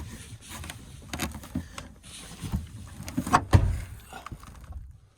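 Pickup truck tailgate being forced against ice: irregular knocks, rattles and scrapes with one loud clunk about three and a half seconds in. The tailgate is frozen solid.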